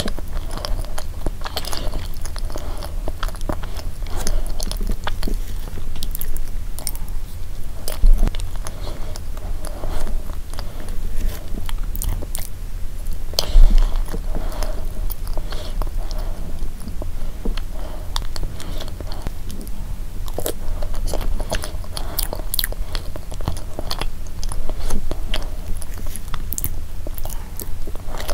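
Close-miked chewing of a soft, creamy layered dessert with a crumbly biscuit base: wet mouth sounds and many small clicks. A couple of louder thumps come about eight seconds in and again near the middle.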